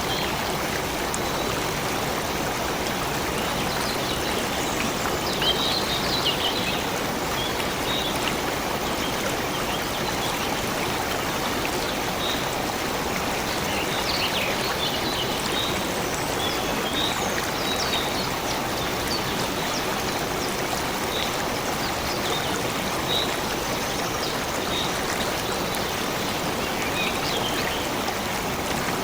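A stream of water flowing steadily, with short high notes popping up now and then above the rush.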